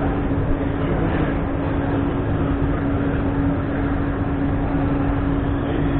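The 1963 Fordson Roadless Ploughmaster's 5.4-litre six-cylinder Ford 290E diesel engine running at a steady speed, with an even hum that holds one pitch.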